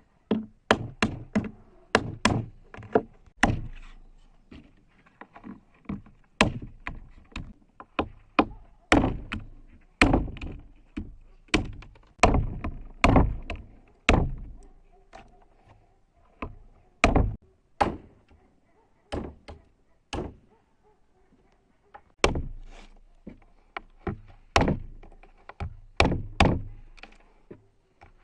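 Repeated hard chopping strikes on wood, about forty, irregularly spaced and often two or three in quick succession, each landing with a dull thunk.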